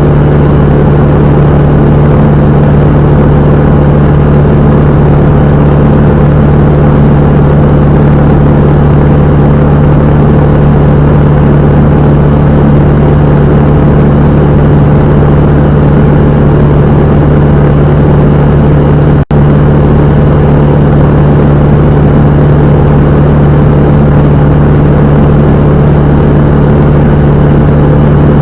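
Cessna 172M's four-cylinder Lycoming piston engine and propeller running at a steady, unchanging power setting, loud and even in pitch. The sound drops out for a split second about two-thirds of the way through.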